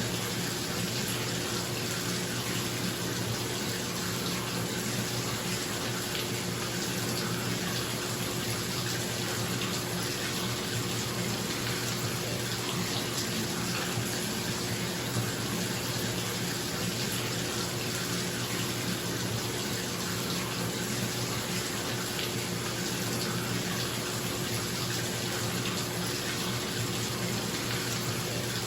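Bathtub tap running, water pouring steadily into the tub, with a bathroom exhaust fan humming underneath.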